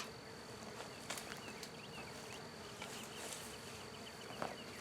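Honey bees buzzing in flight around a small swarm, a steady hum, with a couple of sharp clicks, one just after a second in and a louder one near the end.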